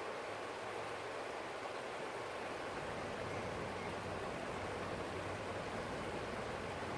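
Forest stream flowing, a steady, even rush of water with no breaks.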